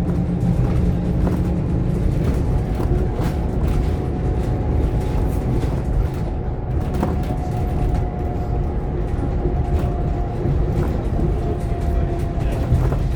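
Scania K230UB OmniLink bus heard from inside while under way: a steady low engine and drivetrain drone with a held whine, and light rattles from the body.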